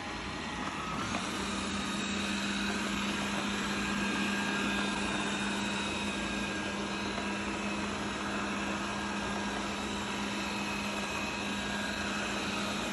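Thamtu G10 robot vacuum cleaner running in automatic cleaning mode: a steady whir of its suction fan and brush motors with a low hum and higher whine, building up over about the first second and then holding level.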